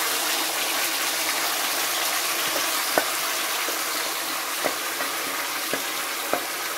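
Blended onion and tomato gravy sizzling in hot oil with cumin seeds in a frying pan, a steady hiss that eases slightly as it settles. From about three seconds in, a spoon knocks sharply a few times against the pan and bowl while the gravy is stirred and scraped in.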